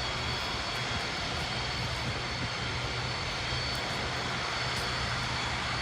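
Boeing 747 freighter's jet engines running, a steady even noise with a thin high whine and a low hum.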